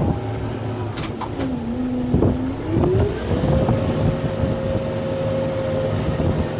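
Kubota M6-141 tractor's diesel engine working under load: its pitch sags about a second and a half in as it lugs down, then climbs back up and holds at higher revs. A few sharp cracks sound in the first three seconds.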